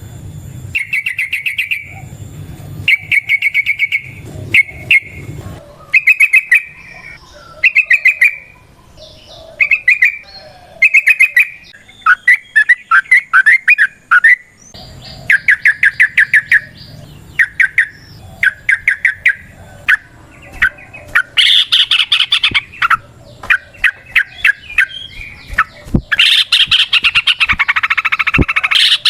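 Yellow-vented bulbul (trucukan) singing its chattering song: short bursts of rapid bubbly notes repeated about once a second, with denser overlapping chatter near the end.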